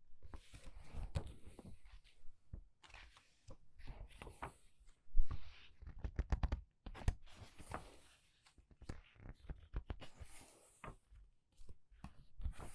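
Pages of a book being turned quickly one after another: paper swishing and rustling, with short soft taps as pages flap over and land.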